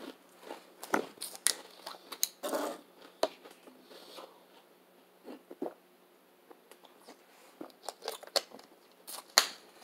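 Chewing a mouthful of crunchy Honey Bunches of Oats cereal with almonds close to the microphone: irregular short crunches and clicks, with a quiet spell about halfway through.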